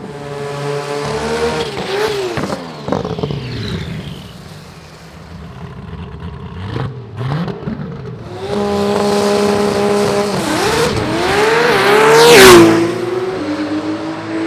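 Drag racing car engines revving hard at the strip, pitch rising and falling. Near the end one engine holds a high note, climbs to its loudest point about twelve seconds in, then drops away sharply as the car goes past.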